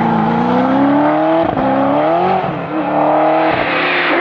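1988 Giocattolo Group B's Holden V8 engine working hard at stage pace, its note climbing under acceleration and dropping sharply several times before rising again.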